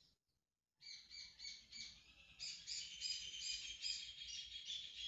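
Small birds chirping, a quick run of short high chirps that starts about a second in and grows denser and steadier.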